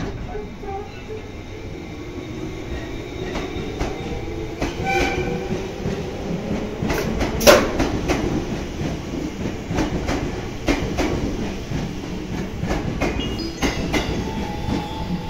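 JR East 211 series electric train pulling away from the platform and gathering speed. Its running gear rumbles with a slowly rising tone, the wheels click over rail joints, and there is one sharp clank about seven and a half seconds in.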